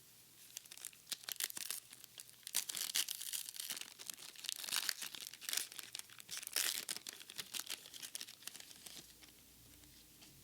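Foil trading-card booster pack wrapper being torn open and crinkled by hand: a dense run of sharp crackles that starts about half a second in and dies away about nine seconds in.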